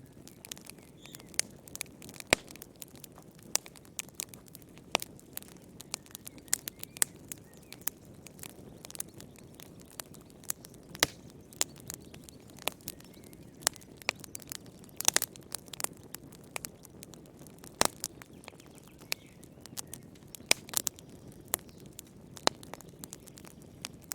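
Wood fire crackling in a fireplace: irregular sharp pops and snaps, several a second with now and then a louder one, over a soft steady rush of flame.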